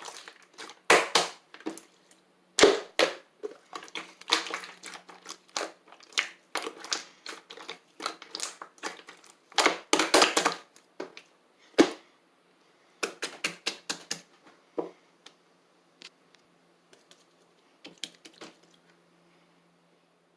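Slime being squeezed and pressed by hand, giving irregular clusters of crackling, popping clicks that thin out over the last few seconds.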